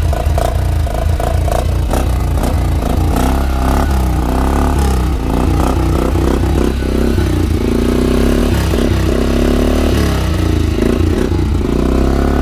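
Polaris Sportsman 400 ATV's single-cylinder four-stroke engine running loud and steady through an aftermarket HMF Swamp Series XL extra-loud muffler, with a deep throbbing exhaust note.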